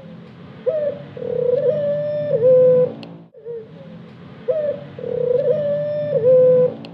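Ornamental Barbary dove (puter) cooing twice, about four seconds apart. Each coo is a short note, a rolling trill, then a long drawn-out note that drops in pitch at the end.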